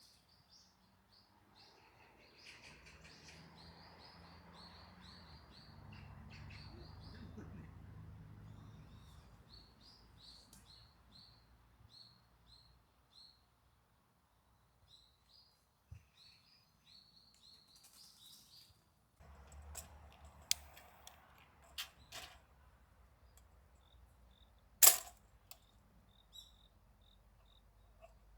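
Crickets chirping in steady rhythmic trains. In the first half a low rumble swells and fades. In the second half come a few sharp clicks and knocks, one much louder near the end.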